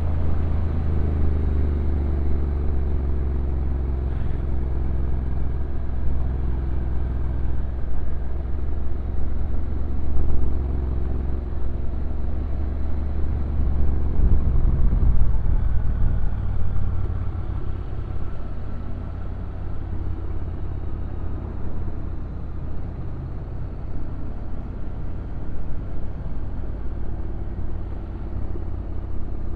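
Honda NC750X DCT's parallel-twin engine running on a downhill ride, under a heavy low rumble; it grows louder around the middle and eases off after that.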